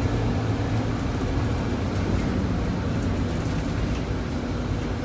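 Steady low rumble of a moving vehicle, even and unchanging throughout.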